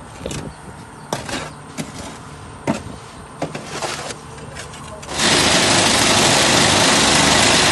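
Concrete block machine: a few scattered knocks, then about five seconds in its vibrator starts with a loud, steady, noisy buzz, shaking the mould to compact the concrete mix.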